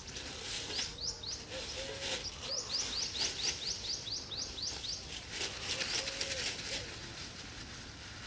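A bird calling a quick run of short rising chirps, about five a second, mostly between two and five seconds in, with a lower call note now and then. Soft rustling of a plastic bag being handled underneath.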